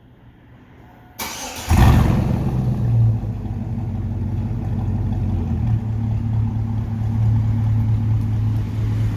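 Chevy Suburban's 5.3-litre V8 with the muffler deleted, cranked by the starter about a second in, catching with a loud flare and then settling into a steady, loud idle.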